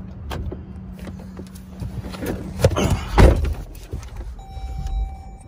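2014 Jeep Grand Cherokee cabin noise while driving over uneven road: a steady low running hum with a few knocks and thuds, the loudest about three seconds in. A steady high tone comes in near the end.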